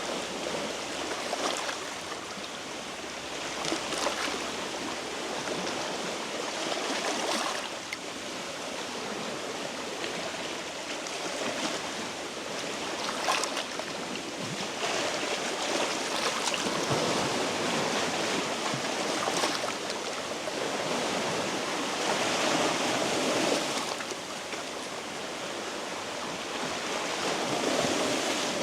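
Small sea waves washing over shore rocks: a steady rush of water that swells into a splash every few seconds.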